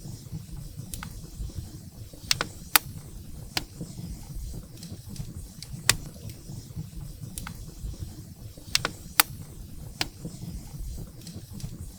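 Wood fire burning in a fireplace: firewood crackling, with irregular sharp pops scattered unevenly, a dozen or so, over a steady low rumble from the flames.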